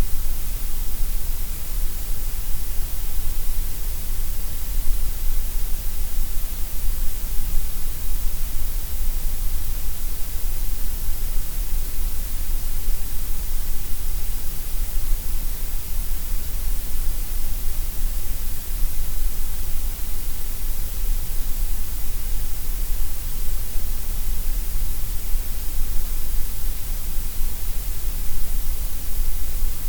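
Steady gray noise: a continuous, unchanging hiss spread evenly across the whole range, with a strong low rumble and bright highs.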